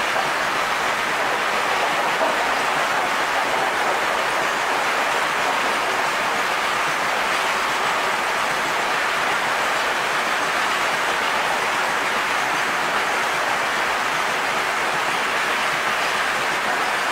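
Freight train of covered goods wagons rolling steadily past, a continuous even rush of wheels on rail mixed with falling rain.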